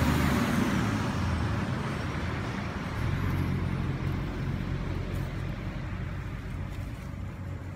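A motor vehicle's low engine rumble with road noise, loudest at the start and slowly fading away.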